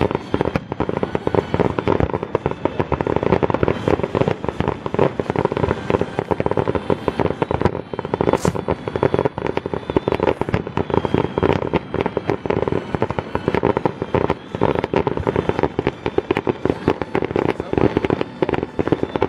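Fireworks barrage: aerial shells bursting in a rapid, unbroken run of bangs, many each second.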